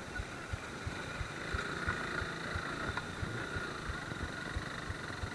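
Suzuki Gixxer motorcycle running along a rough track: a steady engine hum with short low thumps throughout.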